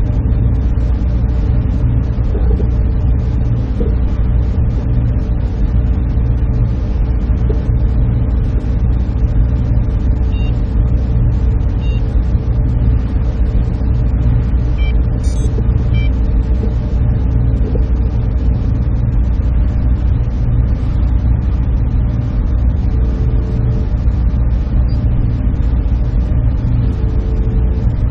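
Server room ambience: a steady, dense low hum and whir of running machines with a constant drone, and a few faint short high tones near the middle.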